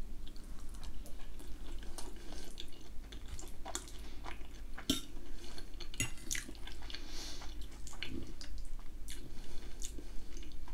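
Close-up eating sounds: chewing a mouthful of ham and potato gratin with vegetables, with many small wet mouth clicks. Now and then a metal fork clinks and scrapes on the plate.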